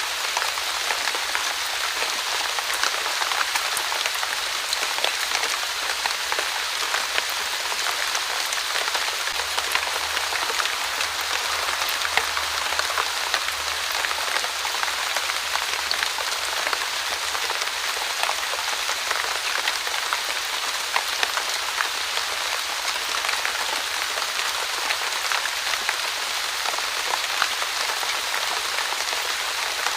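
Light, steady drizzle falling on a surface, a continuous soft hiss scattered with fine, irregular drop taps.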